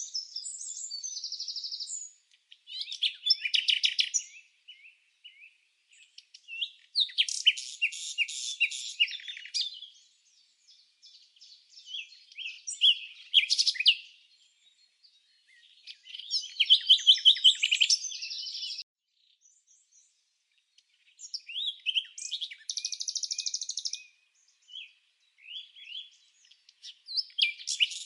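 A songbird singing in repeated high-pitched phrases of quick chirps and trills. Each phrase lasts two to three seconds, with short silent gaps between them.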